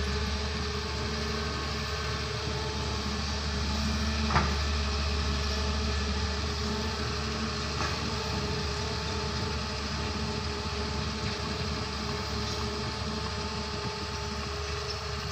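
Doosan excavator's diesel engine running steadily, with a single sharp knock about four seconds in and a fainter one a few seconds later.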